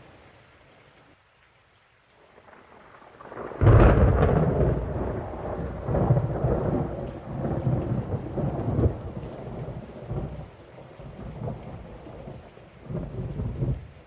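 Thunderstorm with rain: quiet at first, then a thunderclap breaks suddenly about three and a half seconds in and rolls on in low rumbles, with another swell of thunder near the end.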